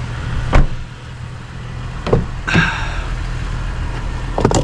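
A vehicle engine running with a steady low hum, with four short, sharp knocks or clunks spread through it.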